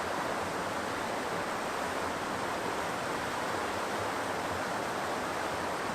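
White-water rapids rushing steadily where a lake drains into a river.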